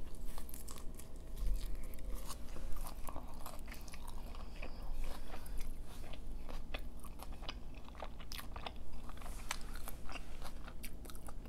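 A person biting into a slice of pizza and chewing it close to the microphone: a crunch of crust at the bite, then many small wet clicks and crackles of chewing.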